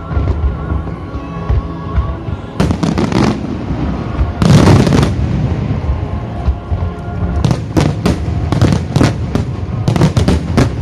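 Starmine fireworks display, shells bursting in quick succession with booms and crackle. A dense, loud cluster of bursts comes about four seconds in, and a rapid flurry of reports fills the second half. Music plays underneath.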